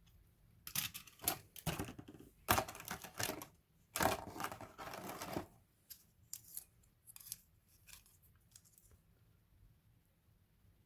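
Hard clicks and clatter from small parts being handled: a dense run of sharp knocks and rattles in the first half, then scattered light ticks.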